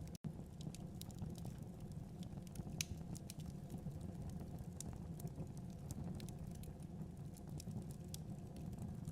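Wood fire burning in a fireplace: irregular pops and crackles over a steady low rumble of the flames. The sound cuts out for an instant just after the start.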